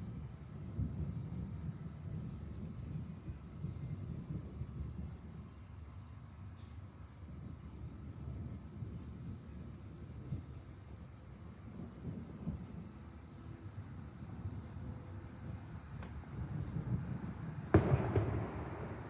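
Crickets chirping in a steady high trill over a low, uneven rumble. Near the end a sudden loud crack of thunder breaks in and rolls on.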